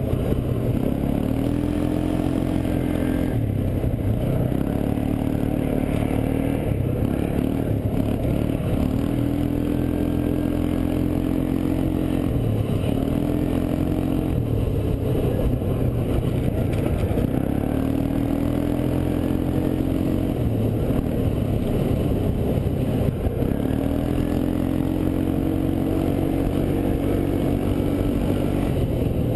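ATV engine running under way, its pitch climbing as the throttle opens and then holding steady, again and again every few seconds.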